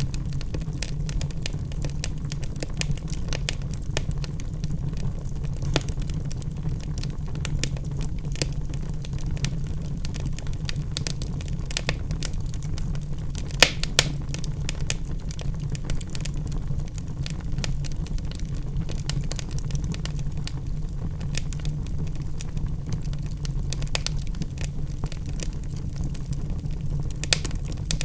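Wood fire in a fireplace crackling, with a steady low rumble of burning logs and frequent small pops, two louder snaps about halfway through and another near the end.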